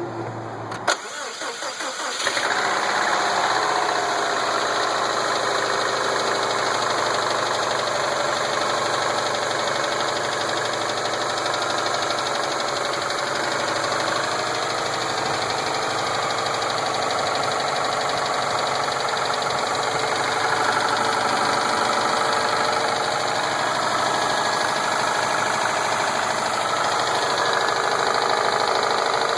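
2007 Subaru Impreza WRX STi's turbocharged flat-four engine: a sharp click about a second in, brief cranking, then it catches after about two seconds and runs steadily. The owner questions whether its running note holds rod knock.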